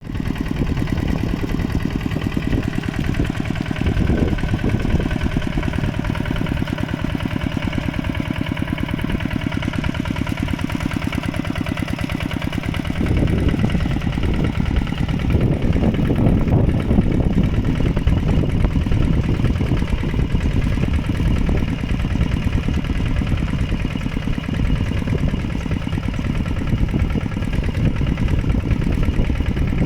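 Mini tractor engine running steadily with a rapid, even chugging; about 13 seconds in it grows louder and rougher.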